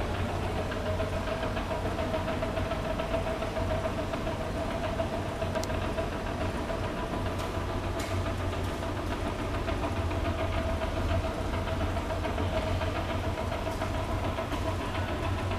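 Steady mechanical hum: a low drone with a faint steady tone above it, unchanging throughout, with a few faint clicks.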